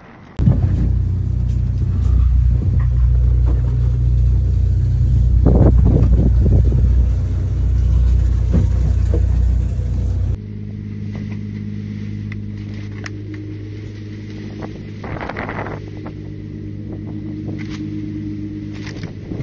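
Fishing boat's engine running steadily with a loud, low rumble. About ten seconds in, the sound switches abruptly to a quieter, higher engine hum.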